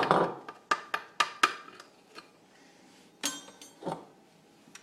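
Kitchenware being handled: a quick run of sharp knocks and clinks in the first two seconds, then a ringing clink like glass or metal about three seconds in, and one more knock.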